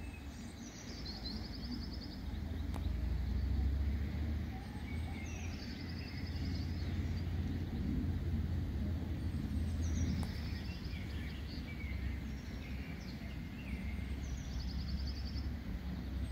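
Songbirds singing outdoors, one repeating a short high phrase that ends in a trill about every five seconds, with fainter calls between, over a steady low rumble.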